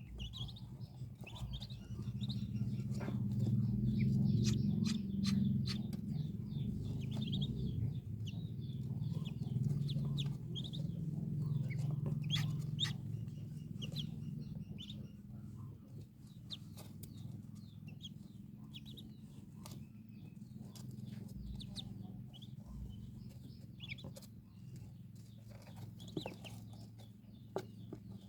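Newly hatched Muscovy ducklings peeping in short high calls, over and over, over a steady low hum that is loudest in the first half.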